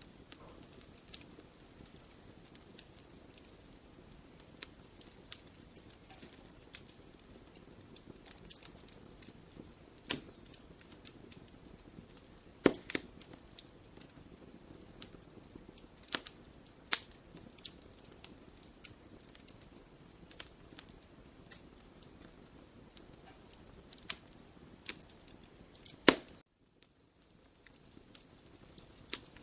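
Wood fire crackling in a fireplace: a soft steady hiss under irregular sharp snaps and a few louder pops, with a sudden drop-out of about a second right after the last loud pop.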